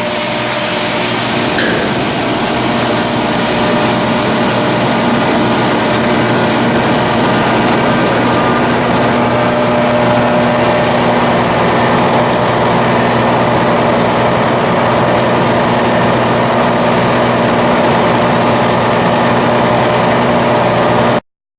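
Coastal cargo ship's diesel engine running steadily, a loud, even machinery noise with several constant tones. It cuts off abruptly near the end.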